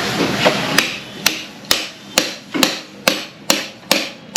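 Hammer striking metal in a steady rhythm, about two blows a second, starting about a second in. This is typical of a mechanic driving out a seized bolt on a motorcycle's front shock absorber.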